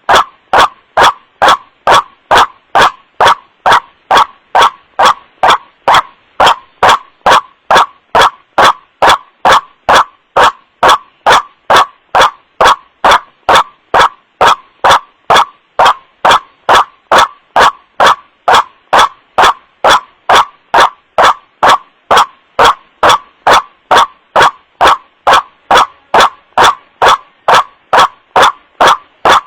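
White-breasted waterhen (kuruak) calls, a loud 'wak-wak' repeated evenly about twice a second: a bird-luring call recording played at full volume, harsh with clipping.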